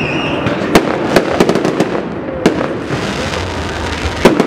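Fireworks display: aerial shells bursting overhead in a string of sharp bangs, several in quick succession in the first two seconds and another near the end, over a dense steady crackle of smaller reports.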